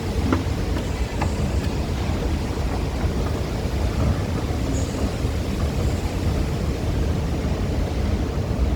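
Steady low rumble of MRT station ambience, with a few faint clicks.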